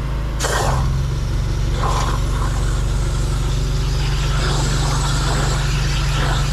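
Drain jetter's engine running steadily; about half a second in the jet is triggered with a short burst of spray, and the engine note changes under load as high-pressure water blasts into a root-blocked gully.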